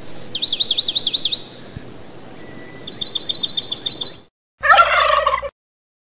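Bird calls: a held high note runs straight into a quick series of sweeping whistled notes. A second, faster series of about ten high notes follows. Near the end comes a short, lower and rougher call.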